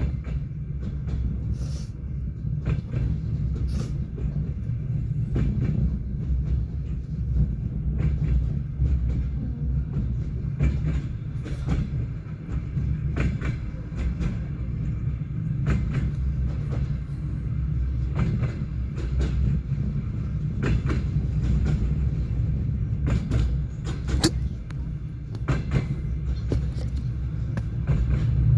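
Passenger train running at speed, with the low rumble of the moving carriage and irregular sharp clacks of the wheels passing over rail joints.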